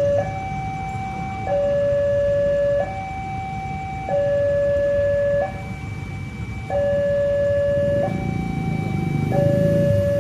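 Electronic two-tone warning alarm alternating evenly between a high and a low tone, each held about a second and a half. Under it is a low rumble that grows louder near the end.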